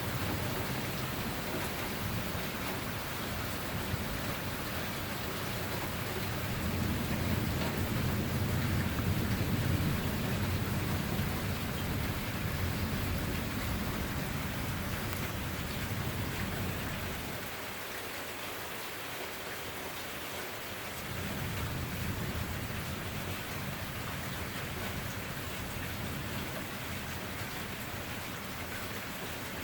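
Steady rain during a thunderstorm, with a low thunder rumble underneath that swells about a quarter of the way in, fades, drops away for a few seconds past the middle, then comes back.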